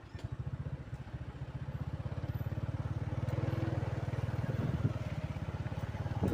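Heavily loaded truck's engine running with a rapid low pulsing, growing louder over the first few seconds and then holding steady.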